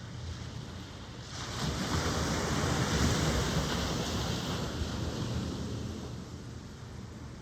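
Ocean surf: a wave breaks and washes in, rising sharply about a second in, then slowly fading over several seconds against a steady background wash.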